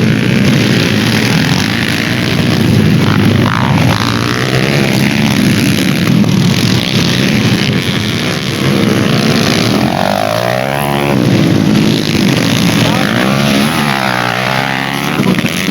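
Dirt bike engines revving hard during a race, pitch repeatedly climbing and dropping with throttle and gear changes, with a marked fall and rise in pitch about ten seconds in as bikes go by.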